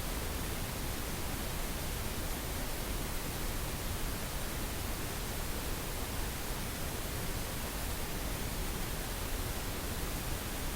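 Synthetic pink noise: a steady, even hiss that holds level throughout, with no tones or breaks.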